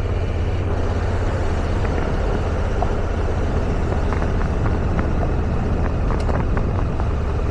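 Motorcycle engine running at a steady cruising speed, with road and wind noise.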